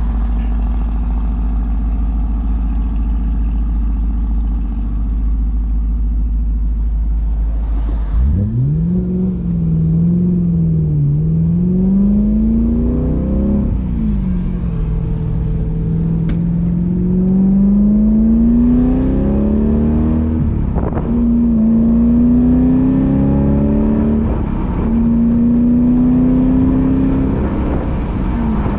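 BMW E93 M3's V8 engine and exhaust, first running steadily, then about eight seconds in revving up hard; its pitch climbs and drops sharply several times as it pulls through the gears.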